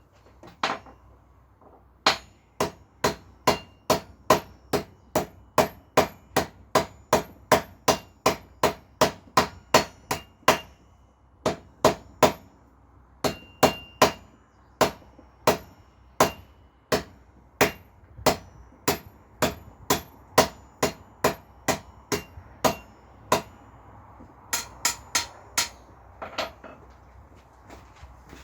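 Blacksmith's hand hammer striking hot iron on an anvil while forging a nail, each blow ringing, in a steady rhythm of about two blows a second with a couple of short pauses. Near the end come a few quicker, lighter taps.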